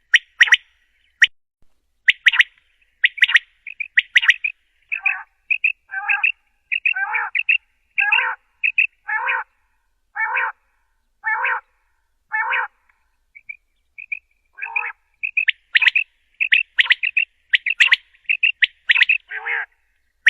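Quail calling: quick runs of short, sharp call notes, slowing in the middle to a call about once a second, then speeding up again near the end.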